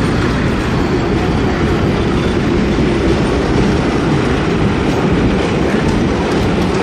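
Arkansas & Missouri Railroad passenger train rolling past close by: a loud, steady rumble of the cars' steel wheels on the rails.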